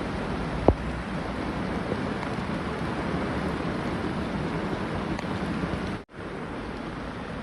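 Steady rushing noise of water from torrential rain and floodwater. There is a sharp click about a second in. The noise breaks off for an instant about six seconds in and comes back a little quieter.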